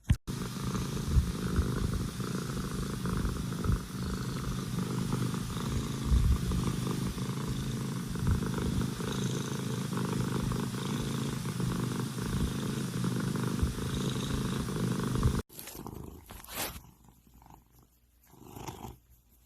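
A domestic cat purring steadily with a fine, rapid pulsing. The purring cuts off suddenly near the end, leaving only faint scattered sounds.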